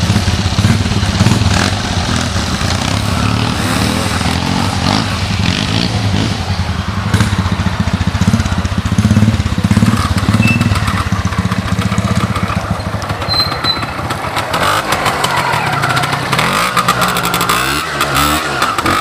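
Old trials motorcycle engines running, with the engine note rising and falling in pitch several times over the last few seconds as the throttle is worked.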